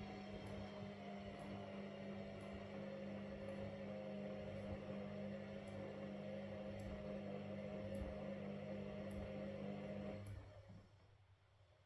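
Washing machine motor humming steadily as it turns the drum, with faint regular ticks; the motor stops about ten seconds in.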